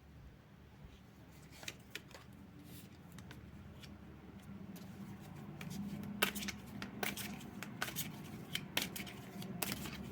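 Tarot cards being shuffled and handled, quiet at first, then a run of short sharp card snaps and flicks from about six seconds in.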